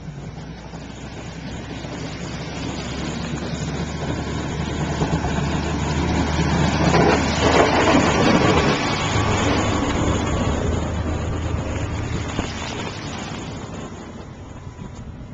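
A motor vehicle drives past, growing louder to a peak about halfway through and then fading away, its engine and tyre noise dropping in pitch as it goes by.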